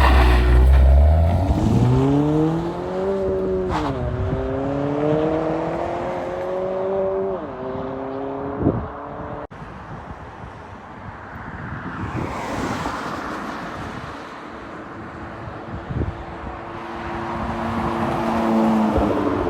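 Honda Civic 1.5-litre turbocharged four-cylinder running through an MBRP aftermarket exhaust. It revs up through the gears with upshifts about four and seven and a half seconds in. After an abrupt change near the middle it runs more quietly at steadier revs, building a little near the end.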